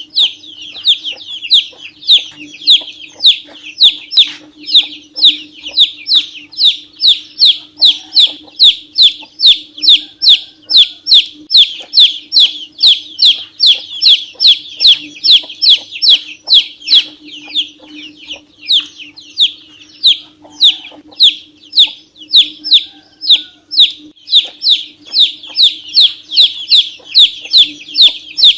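Ducklings peeping continuously: a quick run of short, high calls that fall in pitch, about two to three a second, over a steady low hum.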